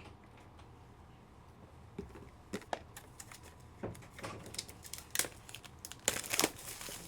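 Plastic and paper packaging crinkling and rustling, with scattered clicks and taps, as trading cards are unpacked by hand; the handling is busiest and loudest about six seconds in.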